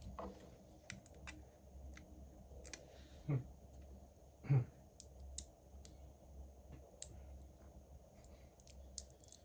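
Faint, scattered light clicks and ticks from small tools and parts being handled on a phone-repair bench, with two duller knocks about three and a half and four and a half seconds in.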